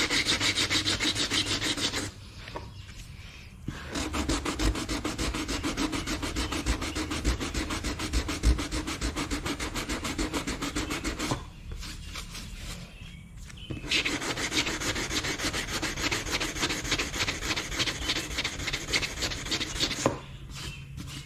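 Sanding body filler smooth on a plastic bumper cover: a fast, even rasping scrape that stops briefly about two seconds in, again in the middle, and near the end.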